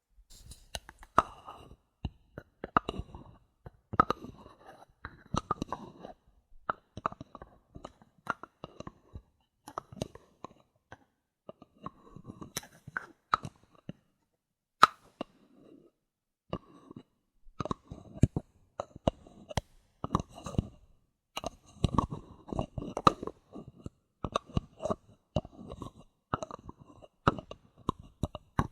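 Bottle caps handled close to the microphone: a dense, irregular run of small clicks, taps and crinkly scrapes, easing off for a few seconds midway before picking up again.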